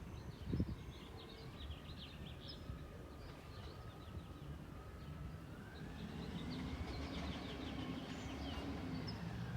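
Peterbilt 320 garbage truck running with a steady low rumble and a faint whine that dips and then slowly rises again, with birds chirping over it. A single thump about half a second in.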